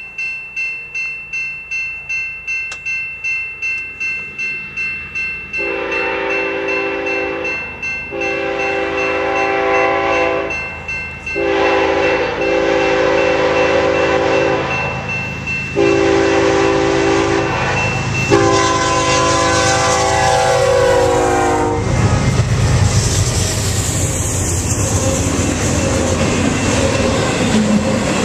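Railroad crossing bell ringing about twice a second, then a BNSF diesel locomotive's air horn sounding five long blasts for the crossing; the last blast falls in pitch as the locomotive passes. From about two-thirds of the way through, the loud rumble and clatter of the intermodal train's trailer-laden flatcars rolling past on the rails.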